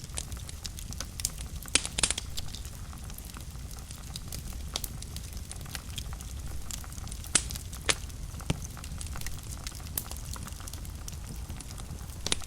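Wood fire burning in a fireplace: a steady low rumble of flames with scattered crackles and a few sharper pops, the loudest about two seconds in and again near eight seconds.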